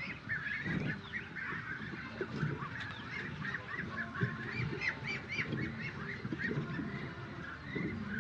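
Many birds or poultry calling together, a steady overlapping run of short, high, arched chirps.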